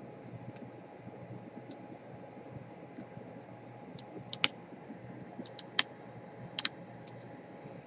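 Small, sharp, irregular clicks and taps of hand tools working on the internal parts of an opened laptop, with a few louder clicks in the second half.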